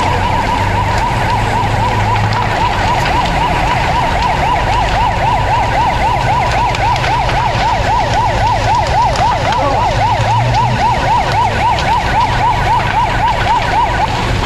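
Fire engine siren in a fast yelp, sweeping up and down about three times a second over a low engine rumble. It holds a steadier high tone at first and stops near the end.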